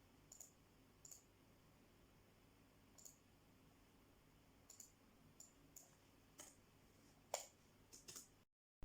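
Near silence with faint, scattered clicks, about a dozen at irregular intervals, one a little louder about seven seconds in; the sound cuts out completely just before the end.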